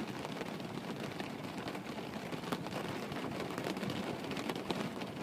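Steady rain falling: an even hiss of rain with faint scattered drops.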